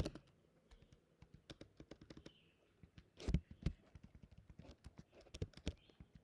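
Typing on a computer keyboard: irregular key clicks, with two heavier key strikes a little over three seconds in.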